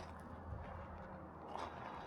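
Footsteps on a steep, loose and slippery dirt trail, a few faint crunches, over a low steady rumble.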